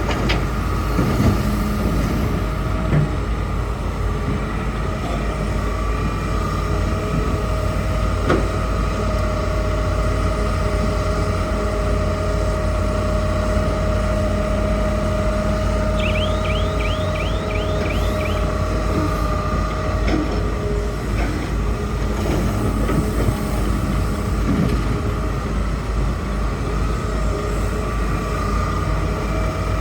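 Hitachi hydraulic excavator's diesel engine running steadily, with a couple of knocks and a quick run of short squeaks a little past halfway.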